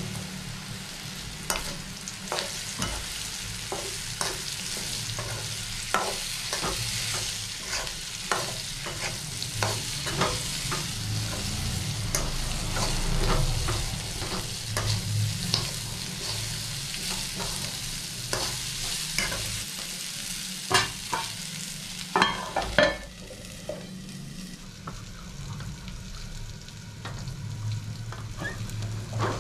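Bitter gourd pieces sizzling as they fry in hot oil in a kadai, with a spoon repeatedly clicking and scraping against the pan as they are stirred. A few louder clanks come about 22 seconds in, and after that the sizzle is quieter and muffled, the kadai covered with a lid.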